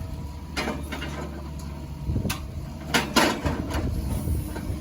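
A machine's engine running steadily under scattered knocks and clanks of chain and wood as a big hickory log is pulled over with a chain, with a cluster of sharp clanks about three seconds in.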